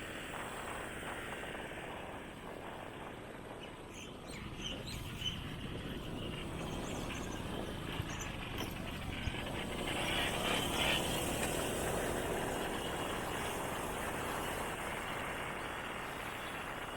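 Motorbike riding along a road: steady engine and road noise, swelling louder about ten seconds in.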